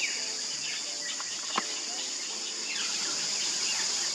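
Fairy martins giving short, downward-sweeping chirps several times over a steady high-pitched insect drone, with one sharp click about a second and a half in.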